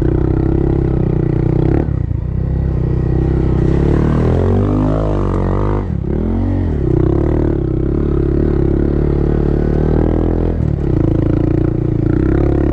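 Honda Monkey's small single-cylinder engine running under way on a dirt trail, its revs shifting about two seconds in, rising and falling a few times in the middle, and changing again near the end as the throttle and gears change.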